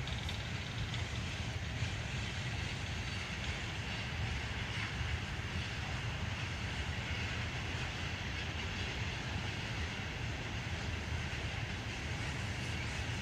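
Freight train rolling past: a steady, unbroken rumble of rail cars on the track.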